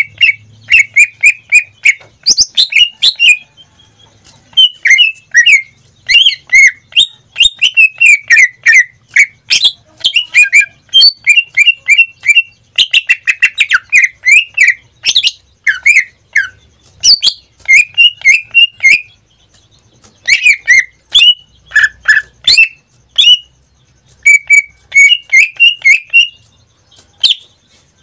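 Pet cucak ijo (leafbird) singing in full song: loud, fast runs of sharp chirps and sweeping whistled notes, with a few brief pauses.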